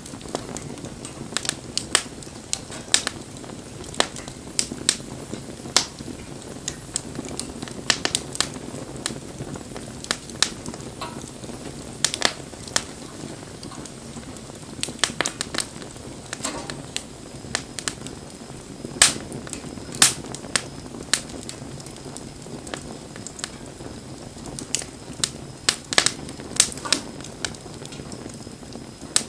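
Wood campfire crackling: irregular sharp pops and snaps, a few of them loud, over the steady low rush of the flames.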